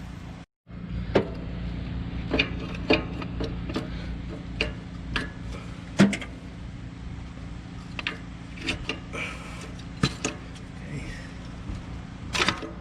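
Scattered metallic clicks and clinks of hand tools and parts being handled in a truck's engine bay, over a steady low hum. The sound drops out briefly about half a second in, and there is a short cluster of knocks near the end.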